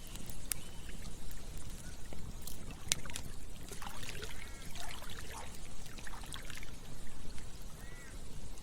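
Campfire crackling, with sharp pops scattered through, over a low steady rush. A few short chirping calls come in about four seconds in and again near the end.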